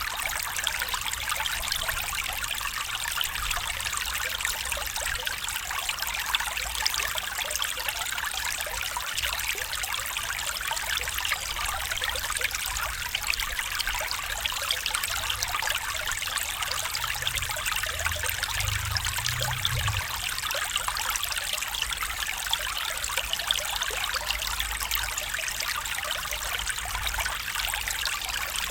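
A small stream trickling and babbling steadily over stones.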